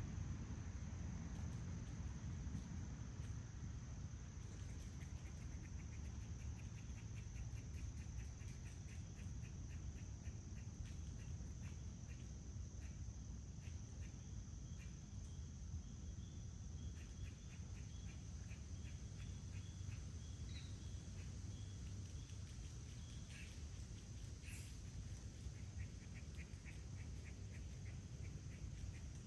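Outdoor insect chorus: crickets or similar insects chirping in rapid pulsed trains over a steady high-pitched whine, with a low rumble underneath and a single short bird chirp about twenty seconds in.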